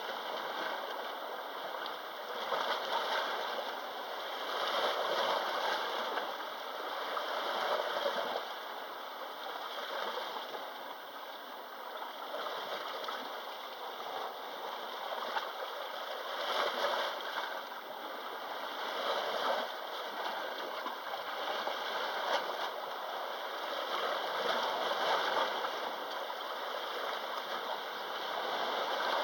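Small sea waves washing onto the shore, the surf swelling and falling every few seconds.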